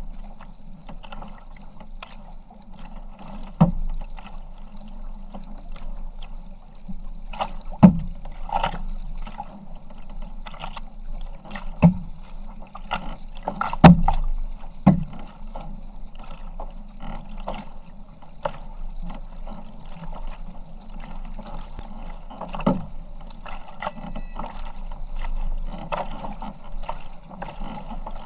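Kayak out on the water: water noise from paddling, broken by a few sharp knocks at irregular intervals.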